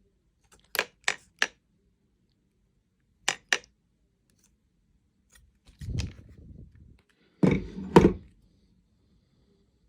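Hand tool being handled and worked: three sharp clicks about a second in, two more a little after three seconds, then two longer knocking, rubbing clunks.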